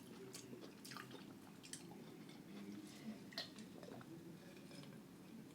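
Faint wet mouth sounds of chewing, with a few scattered small smacks and clicks.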